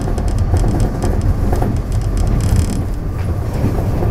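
TRA DR3000 diesel multiple unit running at speed, heard on board: a steady low rumble of engine and wheels on the track, with scattered short clicks and rattles.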